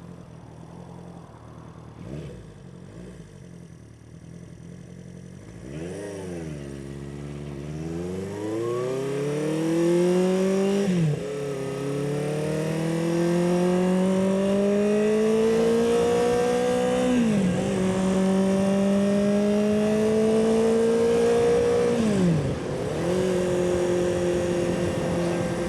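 1976 Honda CB400F's air-cooled four-cylinder engine ticking over, then pulling away about six seconds in and revving up through the gears. Its note climbs steadily and drops back three times at the upshifts, then holds steady at cruising speed. A lot of noise for getting to 40 miles an hour.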